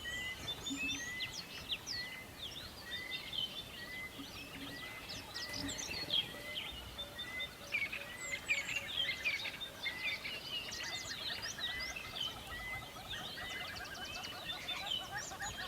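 A chorus of several wild birds chirping and trilling at once, with one bird repeating the same short note over and over, about one and a half times a second.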